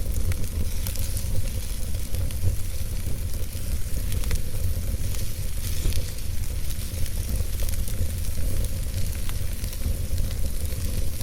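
Wood fire burning in a fireplace: steady hissing with many small scattered crackles and pops over a constant low rumble.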